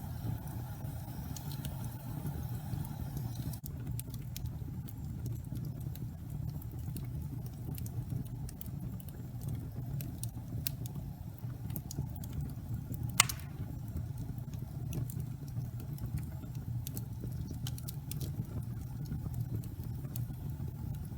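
Wood fire burning in a fireplace: a steady low rumble of the flames with scattered small crackles and one loud pop about thirteen seconds in.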